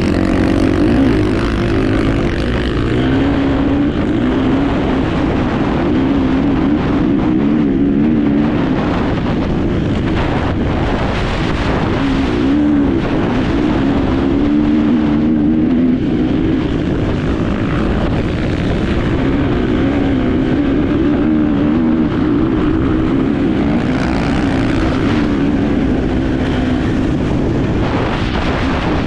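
Enduro motorcycle engine running hard, heard on board, its pitch rising and falling continually with throttle and gear changes.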